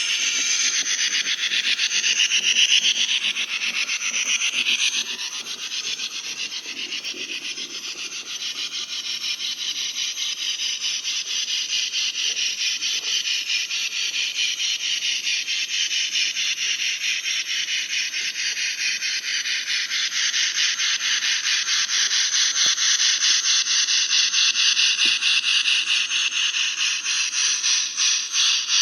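Model steam train running on the layout, a continuous hissing rasp with a rapid rhythmic beat. The beat slows into distinct pulses near the end.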